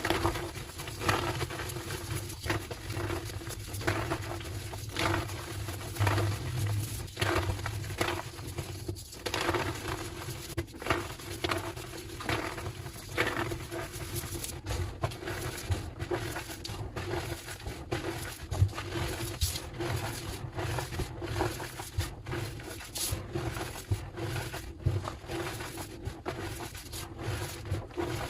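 Homemade gym chalk slabs being crushed and squeezed, giving a continuous run of squeaky, crumbly crunches at an uneven pace, with sharper, crisper crackles in the second half.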